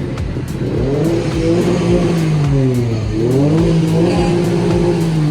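A car engine revved twice, its pitch climbing, falling back, climbing again and holding briefly before dropping.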